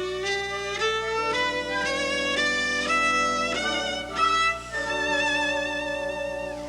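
Solo cello playing a phrase in its high register, the notes climbing step by step and held with vibrato.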